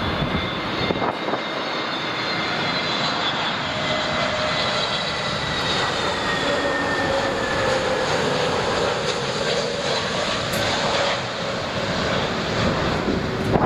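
Jet airliner's engines running as it passes, a steady roar with whining tones that slowly fall in pitch.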